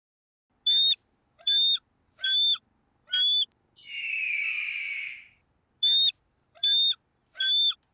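A bird of prey calling: four short, identical high-pitched calls about a second apart, then a longer rasping screech, then three more of the same short calls.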